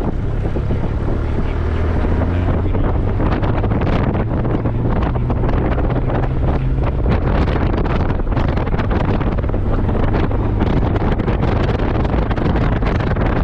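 Heavy wind buffeting the microphone on a moving Honda Gold Wing motorcycle, over the steady low drone of its engine.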